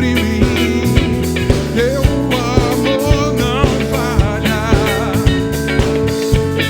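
Band playing a soul groove with drums keeping a steady beat, bass, and a lead guitar line that bends and wavers in pitch.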